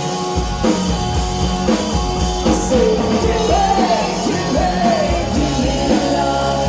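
Rock band playing an upbeat rock and roll song, with singing.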